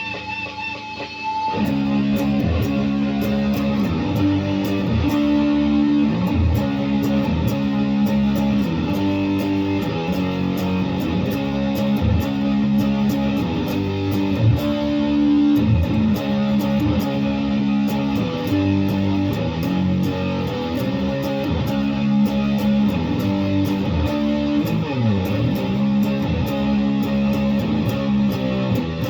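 Guitar being played, most likely electric, with notes and chords coming in a steady rhythm from about a second and a half in.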